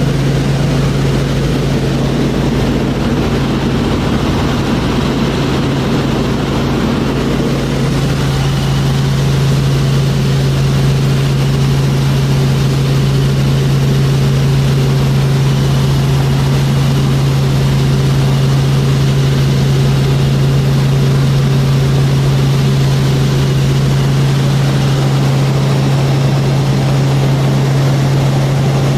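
Tour helicopter in flight heard from inside the cabin: a loud, steady drone with a strong low hum over rushing noise, growing a little louder over the first few seconds.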